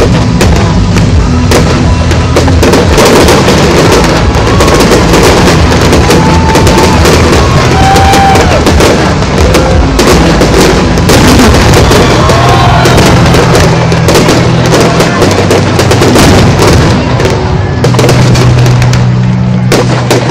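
Fireworks display: shells bursting and launching in rapid, dense succession, very loud, over music with held bass notes.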